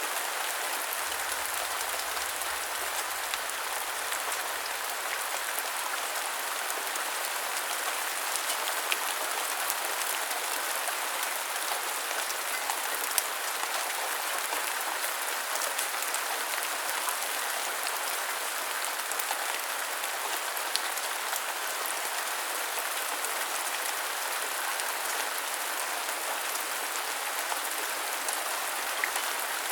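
Steady rain falling, an even hiss of many drops with a few sharper single drop taps scattered through it.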